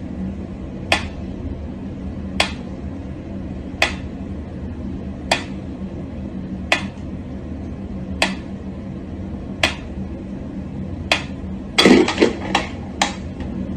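Sharp taps or clinks at an even pace, about one every second and a half, over a steady low hum, ending in a quick flurry of several taps.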